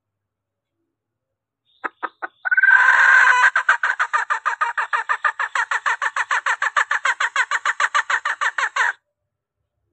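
Call of a junglefowl hen, used as a lure to call in males. It starts with three short clicks, then a drawn-out call about a second long, then a fast even run of clucks, about seven a second, that stops suddenly.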